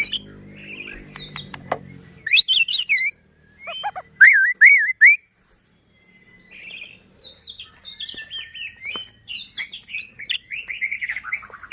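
White-rumped shama (murai batu) singing varied whistled phrases of rising and falling notes. The song breaks off briefly about halfway, then returns as a quicker run of short notes near the end.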